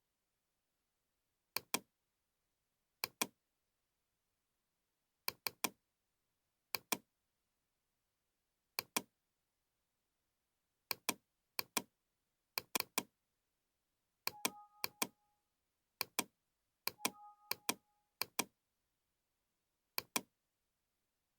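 Computer mouse clicks, mostly quick double-clicks, a pair or three every second or two. Twice, about two thirds of the way through, a brief two-note tone sounds among the clicks.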